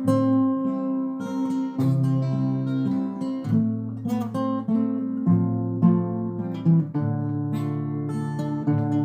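Acoustic guitar playing an instrumental passage between sung verses, a mix of strummed chords and picked notes that change every fraction of a second.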